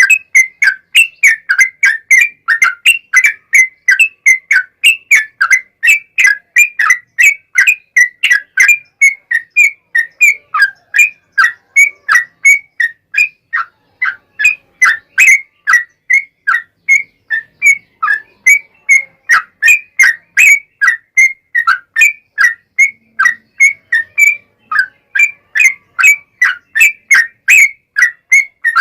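Yellow-vented bulbul (trucukan) singing a long unbroken 'ropel' run: short whistled notes repeated about three times a second. There is a brief break about halfway through.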